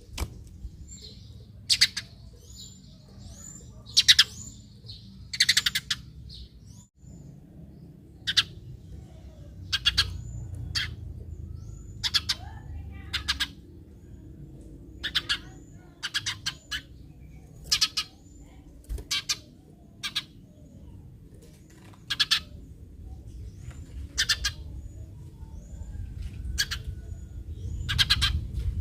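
Eurasian tree sparrow chirping: short, sharp chirps repeated every second or two, over a low steady background hum.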